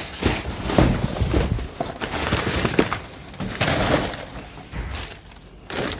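Hard scrap and debris rattling and clinking irregularly as it is rummaged through by hand.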